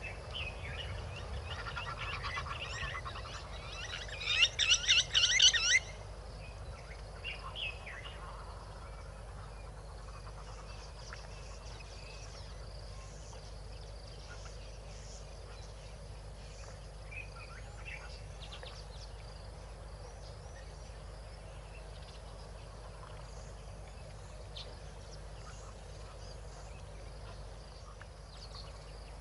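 Wild bird calls: a few softer calls, then a loud, fast string of about ten sharp notes about four seconds in, lasting under two seconds. Scattered faint chirps and insect buzz follow.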